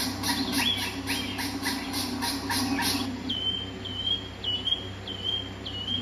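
Bird calls: for the first half, a rapid run of harsh repeated calls, about five a second. Then a series of five short whistled notes, each ending in a quick upward flick, a little more than half a second apart.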